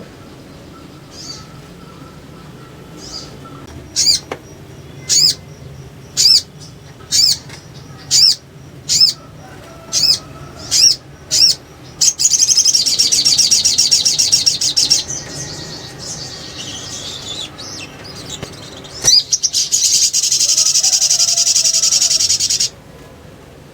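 Little spiderhunter calling: a run of sharp, high single chips about a second apart, then two spells of fast, dense chattering (the 'ngriwik' rattle), the second cutting off abruptly.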